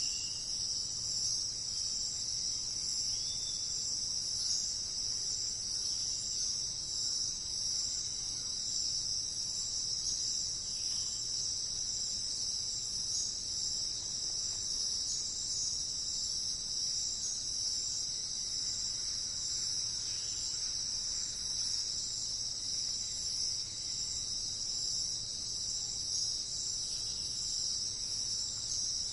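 Steady, high-pitched insect chorus trilling without a break, with a couple of faint short chirps in the first few seconds.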